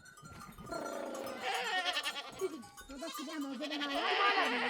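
Goats and sheep of a herd bleating, several long, wavering calls overlapping one another.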